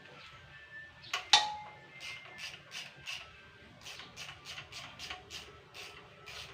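Metal hand tools working on an engine during cylinder-head fitting: two sharp metallic clinks about a second in, the second ringing and loudest, then a steady series of short rasping strokes, about three a second.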